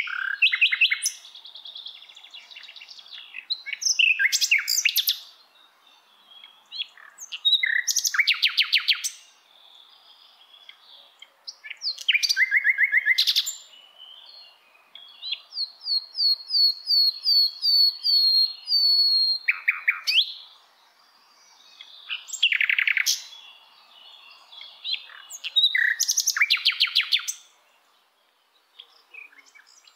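Birdsong: short, bright song phrases with fast trills, repeating every few seconds with short pauses, and a longer run of quick rising notes about halfway through.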